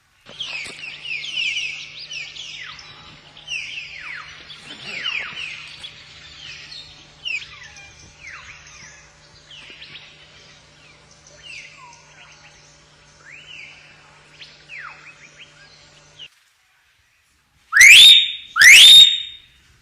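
Common hill myna singing: a run of quick, down-sliding whistles and chattering notes that cuts off suddenly about 16 seconds in. After a short gap, two very loud rising whistles a second apart.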